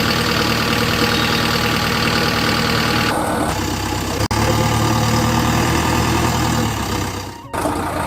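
Engine sound running steadily at idle, broken by abrupt cuts a few times, with a brief dip near the end.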